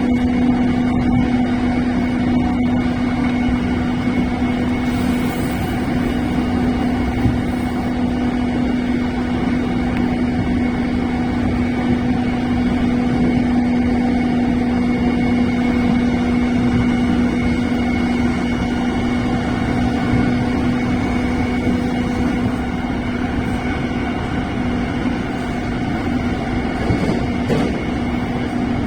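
Running noise inside an electric commuter train travelling at steady speed: a constant rumble of wheels on rail with a steady even-pitched hum.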